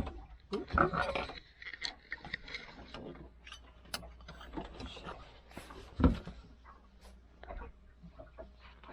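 Irregular clicks, scrapes and knocks of an air fryer basket and utensils being handled while a stuck loaf is worked loose, with a heavier knock about six seconds in.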